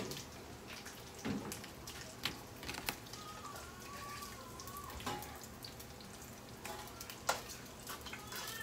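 Breakfast meat sizzling as it fries in a pot, with scattered clicks and knocks of handling. A little before the middle a long wavering high-pitched call sounds once.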